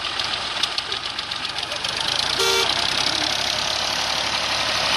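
Heavy diesel engine running hard, getting louder about two seconds in, with a short vehicle horn toot about halfway through.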